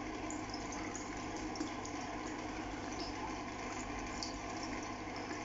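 Steady rush of running water, with a few faint, short, high chirps scattered through it.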